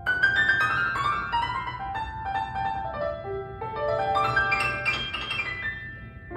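Solo piano playing an introduction: a strongly struck opening, then a run of notes stepping down over about three seconds, followed by a run that climbs and falls back.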